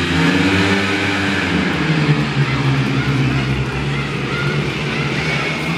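Several speedway motorcycles' engines running and revving, the pitch rising and falling.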